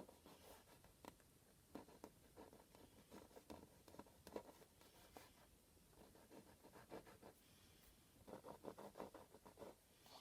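Faint scratching of fingertips rubbing and peeling dried masking fluid off an acrylic-painted canvas, with a quicker run of scratches near the end.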